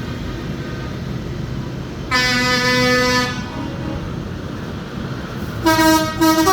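Parade tractors' horns sounding over a steady low engine rumble: one long blast of about a second, then a quick series of short, higher-pitched toots near the end.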